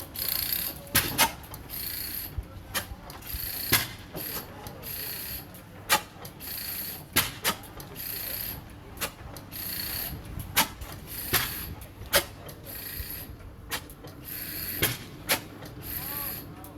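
1899 antique stationary gas engine running slowly: a rhythmic hissing puff about once a second, with sharp mechanical clicks and knocks at uneven intervals.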